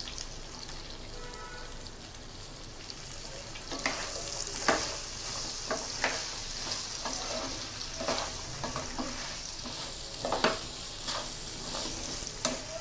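Pumpkin pieces frying in hot oil in a frying pan, sizzling steadily. From about four seconds in a wooden spatula stirs them, with repeated scrapes and knocks against the pan and a louder sizzle.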